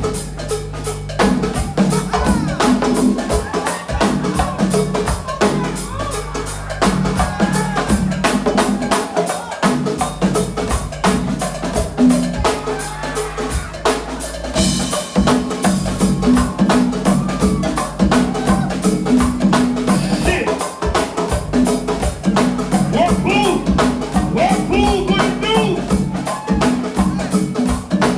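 Live band music driven by a drum kit and hard, fast hand percussion keeping a steady driving beat, in the style of a go-go percussion showcase.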